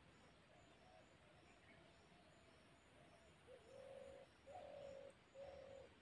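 A bird calling softly: a faint, low wavering call, then three louder, low, cooing notes in a row near the end.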